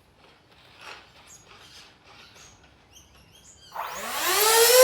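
50 mm electric ducted fan on a model jet spooling up near the end: a loud whine that rises in pitch, then holds steady, after a few seconds of faint handling clicks.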